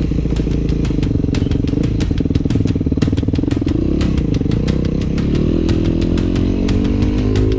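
Yamaha 250 YZF motorcycle engine running steadily, its pitch climbing over the last couple of seconds as it speeds up. A quick run of sharp clattering clicks sounds through the first half.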